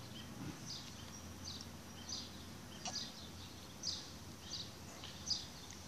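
A small bird chirping over and over, short high chirps repeated roughly every second, faint against quiet outdoor background noise.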